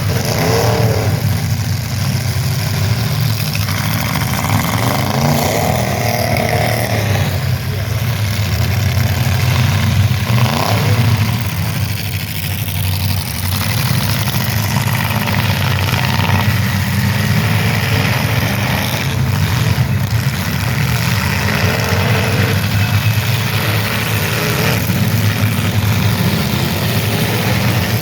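Demolition derby cars' engines running and revving, the pitch rising and falling again and again.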